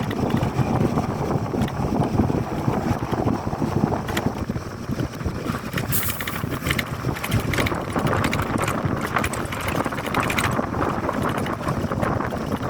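Wind buffeting the microphone outdoors: a steady, rough rumble with scattered crackles.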